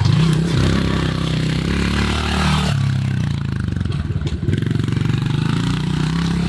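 Pit bike engine running while being ridden, its pitch rising and falling as the throttle is worked.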